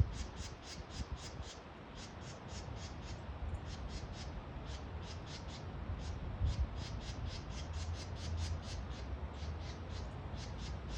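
Birds calling in quick runs of short, high squawking notes, about four a second, broken by brief pauses, over a steady low rumble.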